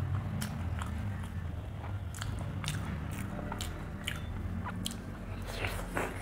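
Close-up mouth sounds of a person chewing food, with many short wet clicks and smacks, then a bite into a whole curry-coated boiled egg near the end. A steady low hum runs underneath.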